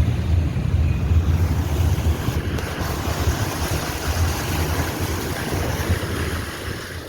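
A vehicle driving through deep floodwater: a low, steady engine rumble with water rushing and splashing against it. The sound eases off near the end.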